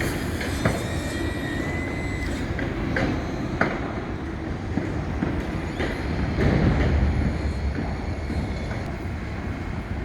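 Steady outdoor city din, a low rumble throughout, with several sharp knocks and a thin high whine lasting about a second and a half near the start.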